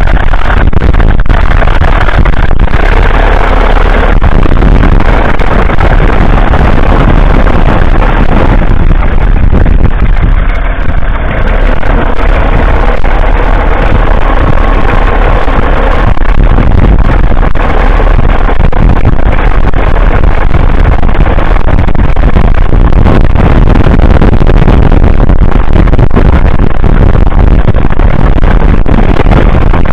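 1947 Fordson Model N's 4.4-litre four-cylinder petrol/TVO engine running loud and steady, easing off briefly about eleven seconds in.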